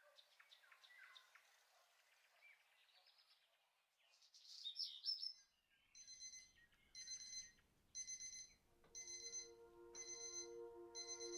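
Faint bird chirps, then from about halfway an electronic alarm clock beeping in even bursts about once a second. Sustained musical tones come in under the beeping near the end.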